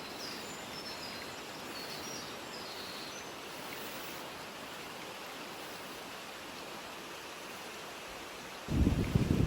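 Steady rushing of a mountain stream, with faint short bird chirps in the first few seconds. Near the end a strong gust of wind suddenly hits the microphone as a loud low buffeting.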